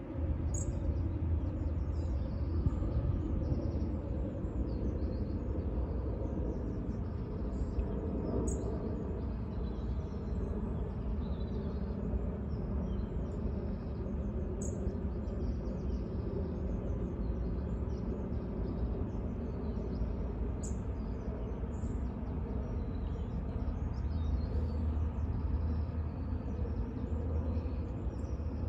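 Outdoor ambience of a steady low rumble with small birds chirping throughout. A short, high bird note recurs about every six seconds.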